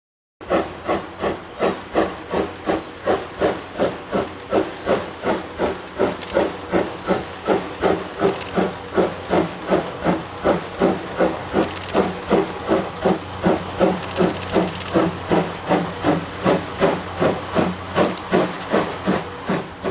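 Steam locomotive C11 123, a C11-class tank engine, working hard with a train, its exhaust chuffing in an even rhythm of about two beats a second that gradually quickens to nearly three.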